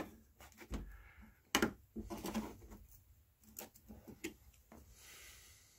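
Scattered clicks, light knocks and scraping of metal parts as an oven door hinge is handled and tried in place, with one sharper knock about a second and a half in and a faint rubbing near the end.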